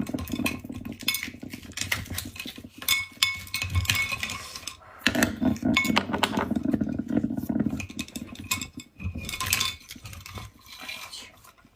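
Cutlery and dishes clinking and scraping against each other, a run of sharp clicks and taps, some with a short ring.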